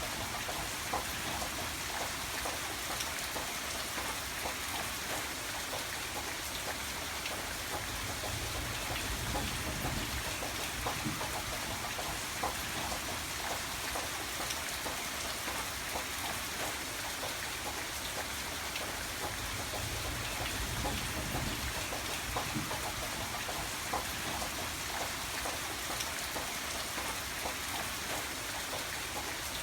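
Steady rain falling, with individual drops ticking on a surface over an even hiss.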